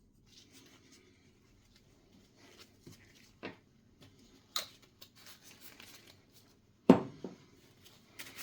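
Hand-work noises on a workbench: light scraping and rustling with scattered clicks, then a louder knock followed quickly by a second, a little before the end.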